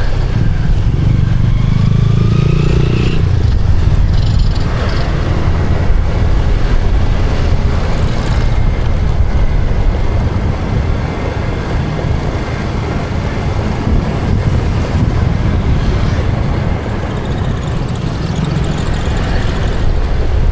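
Loud, steady vehicle and road-traffic noise with a deep rumble, heard from a moving vehicle in city traffic.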